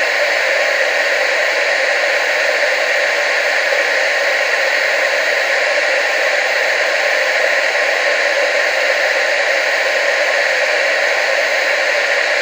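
Steady, unchanging hiss of TV static, thin in the bass with most of its energy in the middle and upper range.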